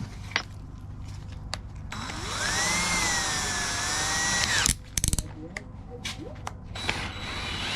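Electric drill boring into a cast-iron exhaust manifold with a broken drill bit. The motor spins up with a rising whine, runs for about three seconds and stops. A few sharp clicks follow, and the drill starts again near the end.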